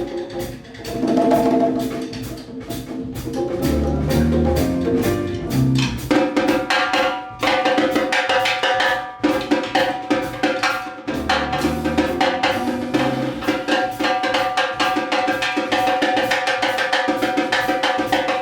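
Latin jazz band playing a Brazilian tune live: drum kit and hand percussion with bass and piano. A sparser percussion passage gives way about six seconds in to the fuller band with held notes over busy drumming.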